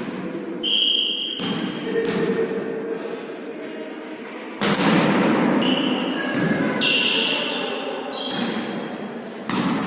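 Volleyball being struck and bouncing on the hall floor during volley tennis play: several sharp thuds that echo in the hall, with short high squeaks in between.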